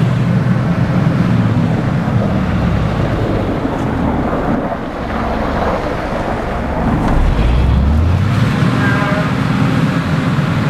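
Engine and tyre noise of a car driving on a wintry road, heard from inside the cabin. A deeper rumble swells in the middle and fades about eight seconds in.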